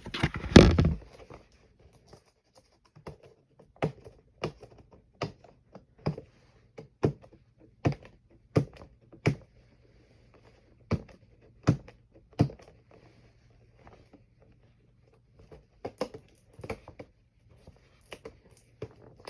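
Hands opening a cardboard collectible-figure box: a loud handling burst at the start, then a string of sharp clicks and taps, about one to two a second, with a short lull past the middle.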